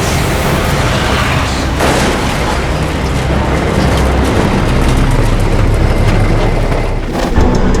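Highway traffic going past at speed: a loud, steady rush and low rumble with no clear breaks.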